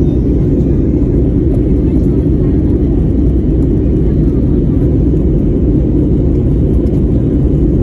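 Airliner cabin noise: the steady low rumble of the jet engines and rushing air, heard from inside the cabin of an Air India flight after takeoff.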